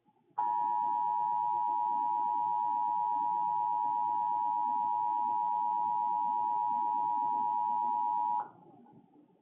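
Emergency Alert System two-tone attention signal: a steady two-note alarm tone that starts about half a second in, holds for about eight seconds and cuts off abruptly. It marks an incoming alert, ahead of the spoken warning.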